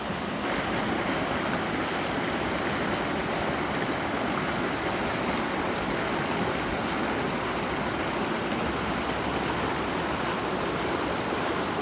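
Creek water flowing steadily, a continuous even rush that grows a little louder about half a second in.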